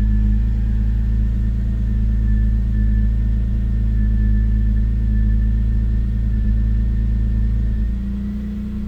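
BMW E39 528i's 2.8-litre inline-six running at a raised warm-up idle, steady, with a faint high whine over it. About eight seconds in, the engine note drops and settles lower as the idle comes down. The engine has a rough-idle problem and is not yet idling smoothly.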